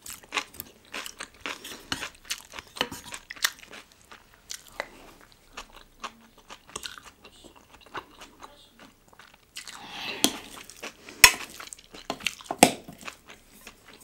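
Close-miked chewing and crunching of food in the mouth, with irregular crisp crunches and a few louder sharp clicks near the end.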